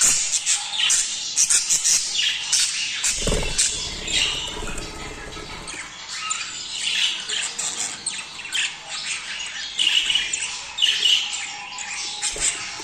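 A flock of budgerigars chattering, with many short overlapping chirps and squawks. About three seconds in there is a dull low thud that trails off in a brief rumble.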